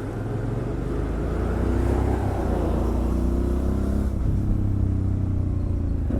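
Motorcycle engine pulling under acceleration from the rider's seat: its pitch climbs, drops at a gear change about four seconds in, then climbs again, with wind and road noise underneath.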